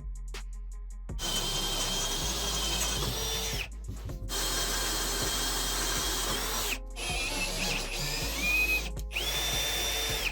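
A handheld electric power tool running under load in three short clips joined by abrupt cuts, a steady whine over noisy cutting, over background music.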